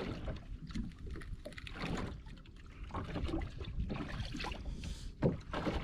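Water slapping against the hull of a small boat drifting at sea, with irregular light knocks from gear aboard over a steady low rumble.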